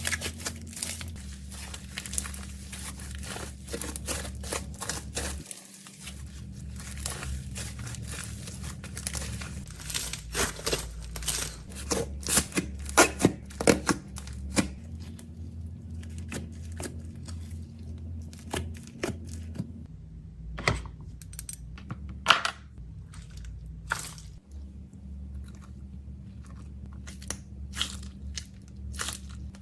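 Snack packaging being handled: plastic wrappers crinkling and tearing open, with irregular clicks and taps as items are handled. A low steady hum runs underneath.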